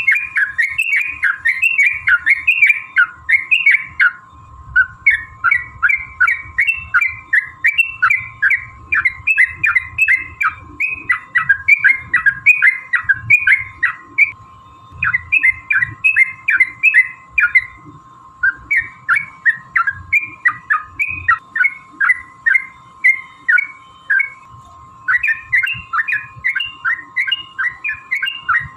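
Yellow-vented bulbul (trucukan) singing its long, rapid bubbly chattering song ('ropel'), phrase after phrase in long runs with a few brief pauses. A faint steady tone hums underneath.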